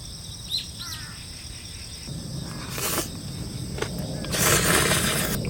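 Steady high insect trilling with a few short bird chirps about half a second to a second in. Two louder bursts of rushing noise come around three seconds and four and a half seconds in.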